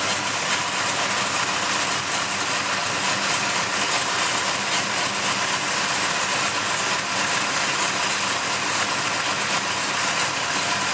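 1966 Dodge Dart GT's 360 V8, bored out to 408 cubic inches, idling steadily with the hood open.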